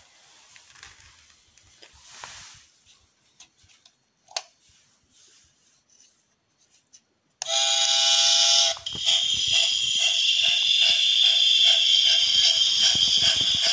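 Faint clicks of handling, then a 1/32-scale steam locomotive model's sound-effects board playing through its small tender speaker. About seven and a half seconds in, a whistle blast of a bit over a second sounds, followed by steady rhythmic steam chuffing and hiss.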